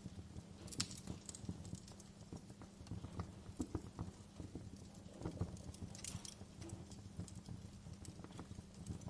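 Wood fire crackling in a fireplace: irregular pops and snaps over a low steady hum, with a sharper crack about a second in and a cluster of pops around six seconds in.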